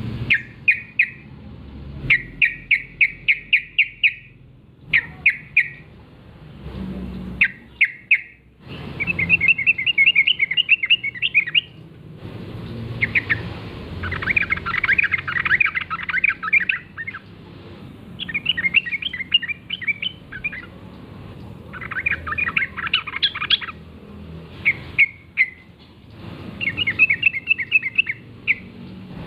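Wild yellow-vented bulbuls (trucukan) calling: bursts of quick, bubbly chattering notes, phrase after phrase with short pauses between.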